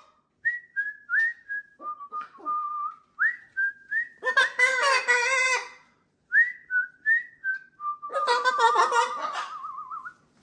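A parrot whistling: a run of short whistled notes, many sliding upward, broken twice by harsher, fuller calls and ending in a warbling whistle.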